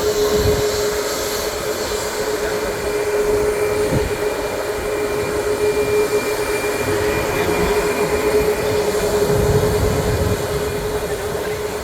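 Jet airliner's engines at takeoff power, a loud steady rush of jet blast with a constant whine running through it, easing off near the end.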